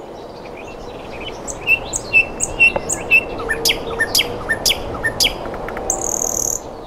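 Birds chirping: a quick run of short, sharp calls, several a second, starting about a second and a half in, over a steady background hiss.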